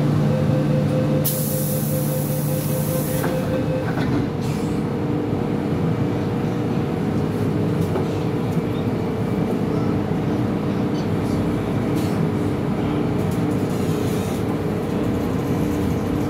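MTR M-Train electric multiple unit running on the Kwun Tong Line: a steady rumble of wheels on track with a constant motor hum. About a second in, a hiss lasts for about two seconds.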